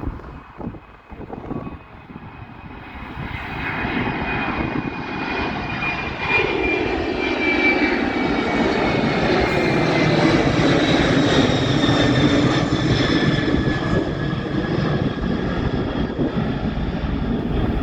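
Boeing 747's four jet engines at high thrust on departure, growing louder over the first several seconds and then holding at a loud, steady level, with high whining tones that slowly fall in pitch as the jet passes.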